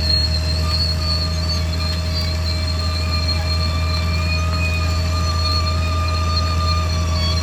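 Caterpillar D6R XL crawler bulldozer working: a steady low diesel drone with several high squealing tones held over it, wavering slightly in pitch.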